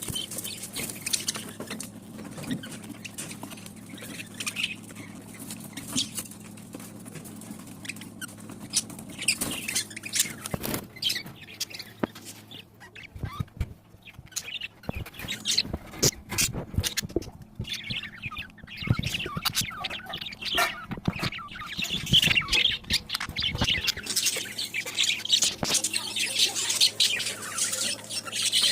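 Small colony of pet budgerigars chirping and squawking, with scattered clicks and knocks around the middle; the chirping grows busier in the last third.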